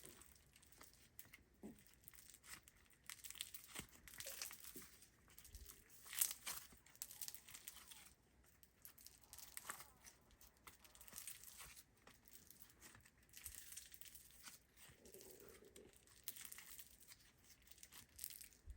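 Foam slime being squeezed and stretched by hand, giving faint, irregular crackling and little pops.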